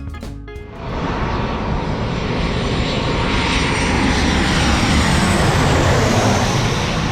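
Jet airliner passing close by, a loud rushing engine noise that comes in strongly about a second in and swells to its loudest near the middle, with a faint falling pitch as it goes by. The end of a guitar music track is heard briefly at the start.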